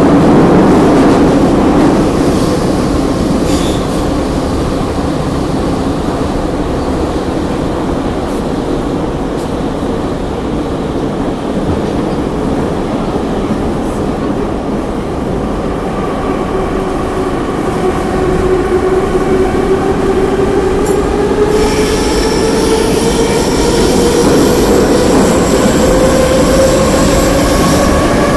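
Kyiv metro train running through the tunnel, heard from inside the carriage: a loud steady rumble with a whine that sinks a little in pitch and then rises over the last dozen seconds. High squealing tones come in about two-thirds of the way through.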